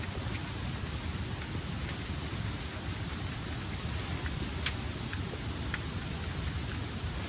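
Heavy rain falling steadily, a dense hiss with scattered individual drops ticking sharply on a surface close by.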